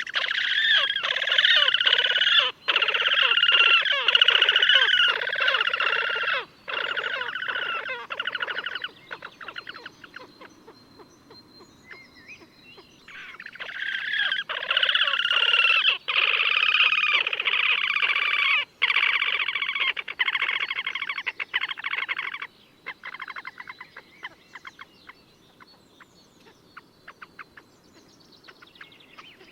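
Slavonian grebe giving loud, rapid trilling calls in two long bouts of several seconds each, separated by a pause, with fainter trills trailing off near the end.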